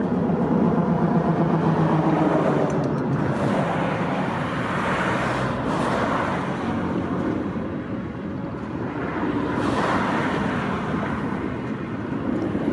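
Steady vehicle road noise with a low engine hum, swelling and easing a few times.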